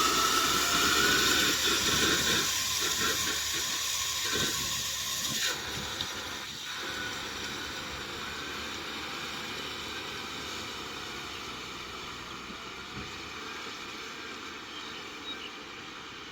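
Tractor engine and rotavator running steadily with a hissing, whining mechanical noise, gradually fading away; the high hiss drops off abruptly about five seconds in.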